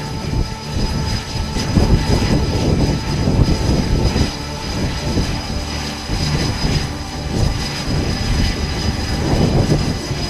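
Aircraft engines running loud and steady, with a thin high whine above the rumble.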